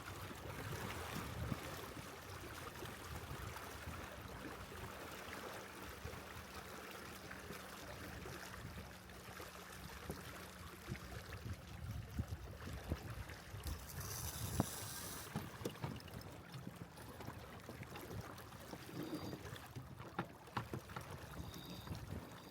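Water washing along the hull of a Catalina 22 sailboat under sail, with wind on the microphone. Scattered light knocks come midway, and a brief hiss comes about fourteen seconds in.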